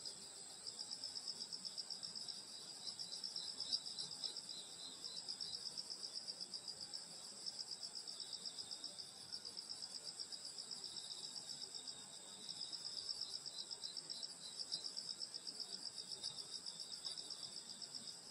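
Night chorus of crickets and other grass insects, a steady high-pitched trilling of fast, even pulses that swells and eases slightly.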